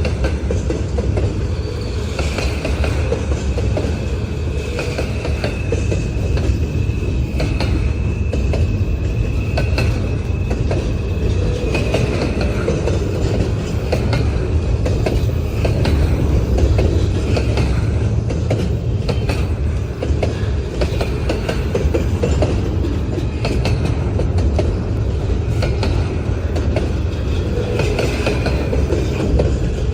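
Freight cars of a long intermodal train rolling past, wheels clicking and clacking over rail joints over a deep steady rumble. A thin, high wheel squeal rings for about ten seconds in the first half.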